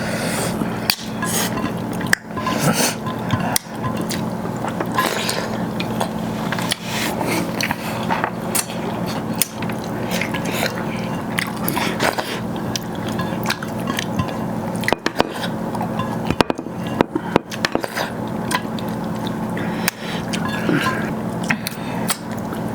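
A person eating rice with chicken gravy close to the microphone: chewing and mixing the food, with many small clicks and clinks of food and plate throughout.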